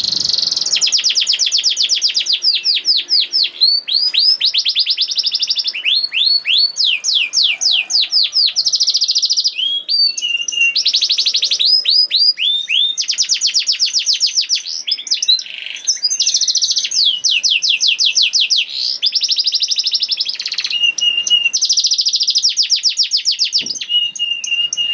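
Domestic canary singing continuously: long rapid trills of repeated sweeping notes, each roll changing pace and pitch, broken only by short pauses.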